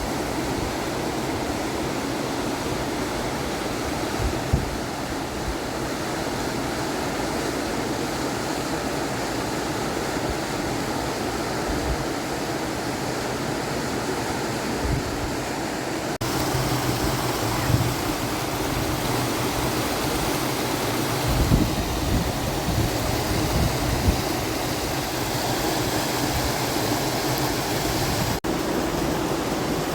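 Steady rushing of flowing water, changing slightly at two cuts, with a few faint low knocks.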